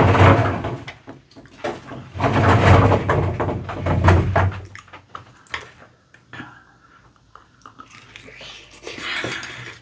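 A person chewing spicy fried chicken close to the microphone, with two long stretches of loud, wet crunching, one at the start and one from about two seconds in. After that it goes quieter, with only scattered small clicks.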